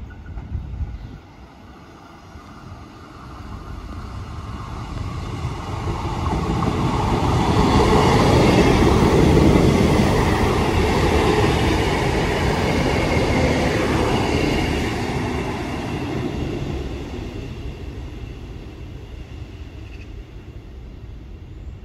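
Two coupled Class 158 diesel multiple units passing through the station without stopping, the engine and wheel-on-rail noise building to a peak about eight seconds in, then fading over the next ten seconds.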